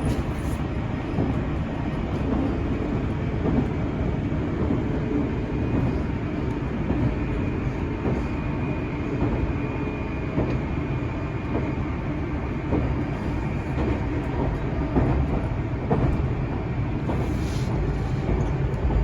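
Cabin noise inside a moving limited-express electric train: a steady rumble of wheels on rail, with a faint high steady tone in the middle stretch.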